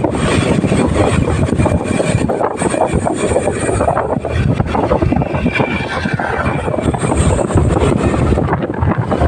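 Loud, steady noise of a motorcycle on the move: engine and the rush of riding.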